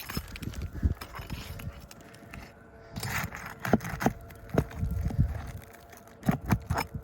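Scraping and an irregular series of knocks and clicks as a roof shingle is lifted and worked loose by hand, with a rustling scrape about three seconds in.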